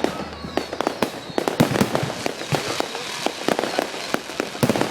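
Fireworks going off: a rapid, irregular string of bangs, pops and crackles, many overlapping.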